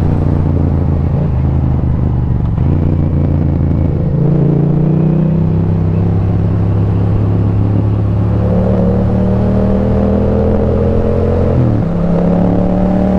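Motorcycle engine running under way, heard from on the bike, a steady drone whose pitch climbs slowly as it pulls, then changes sharply near the end.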